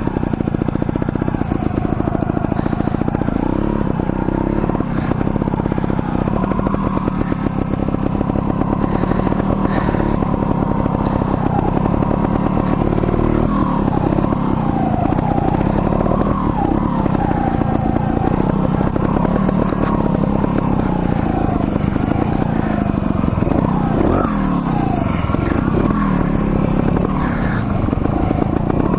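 Trials motorcycle engine running at low revs while the bike is ridden slowly, the revs rising and falling over and over.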